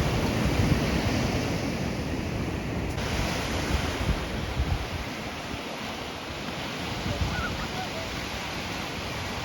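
Ocean surf washing in steadily, with wind buffeting the microphone, strongest in the first few seconds.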